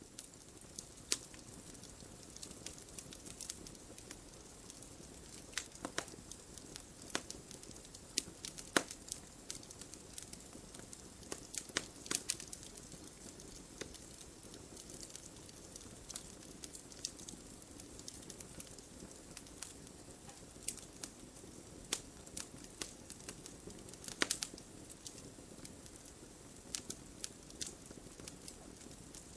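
Wood fire burning in a fireplace: logs crackling with irregular sharp pops over a soft steady hiss, a few louder pops standing out.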